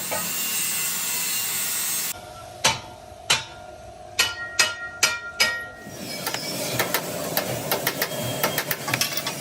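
Workshop tool sounds from tyre repair: about two seconds of steady grinding hiss, cut off suddenly, then half a dozen hammer blows that ring on metal, then scraping with many quick knocks near the end.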